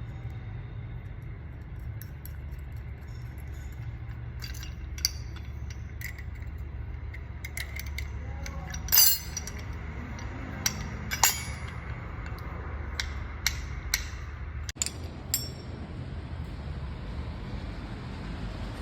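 Metal tools and parts clinking and tapping, a dozen or so sharp clinks at irregular intervals, over a steady low hum.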